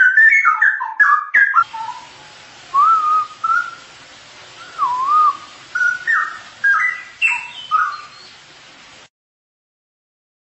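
Straw-headed bulbul (cucak rowo) singing: short bursts of liquid, gliding whistled phrases with pauses between them. The sound stops about nine seconds in.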